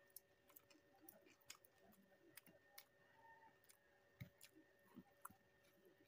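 Faint eating sounds: irregular short mouth clicks and smacks while chewing, over a low steady hum.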